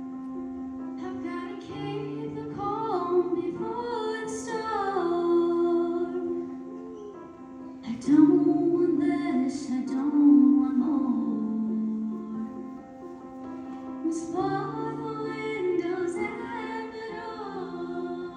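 Live show choir music: a female voice sings a slow, sustained melody in phrases over held accompaniment chords, swelling loudest about halfway through.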